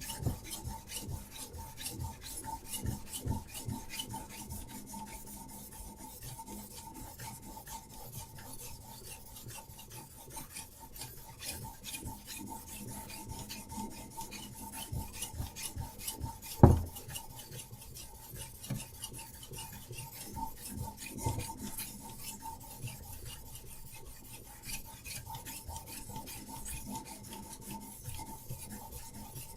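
A diamond sharpening stone on a Hapstone RS guided sharpener rasping in rapid back-and-forth strokes along a knife's edge. About halfway through there is a single sharp knock, the loudest moment, and a faint steady tone runs underneath.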